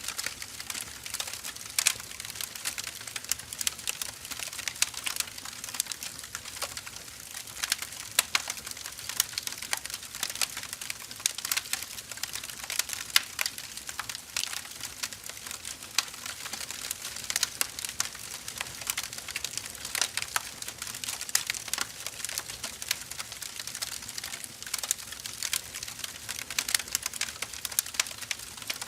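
Burning firewood crackling: a dense, irregular run of sharp pops and snaps over a soft hiss, with no let-up.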